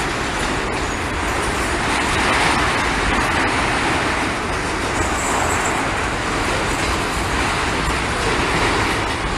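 Steady rolling noise of a Norfolk Southern freight train's cars passing close by, an even rumble and hiss with no horn or sharp clanks.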